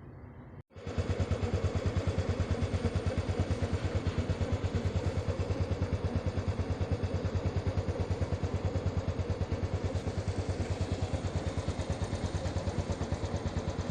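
A small engine running steadily with a fast, even pulse of about ten beats a second. It starts abruptly about a second in and cuts off suddenly at the end.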